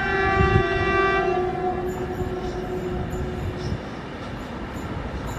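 Indian Railways electric locomotive horn sounding a chord of steady notes that fades out about two seconds in, over the rumble and clatter of the train running past at speed.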